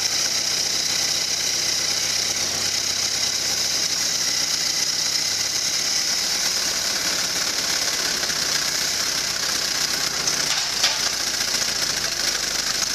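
Ford Model T four-cylinder flathead engine running steadily, with a single sharp click about eleven seconds in.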